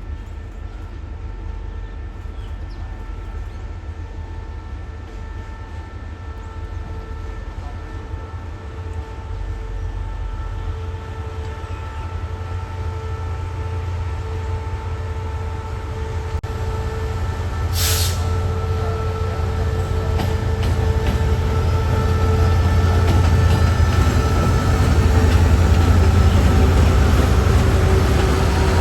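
Diesel train running on the line and drawing closer, its heavy engine rumble growing steadily louder, with a brief high hiss about two-thirds of the way through.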